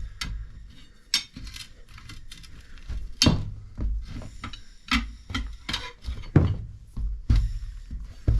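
Irregular metal clanks and clinks of tools and parts handled during tractor wheel and tire work, some strikes sharp and loud, over a low rumble.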